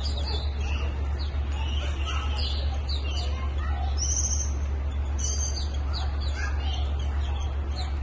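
Small birds chirping, many short high calls sweeping up and down in quick succession, over a steady low hum.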